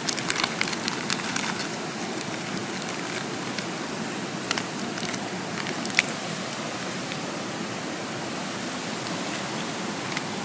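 Steady rush of a mountain stream, with a quick run of sharp crackles and pops at the start and a few single pops later on.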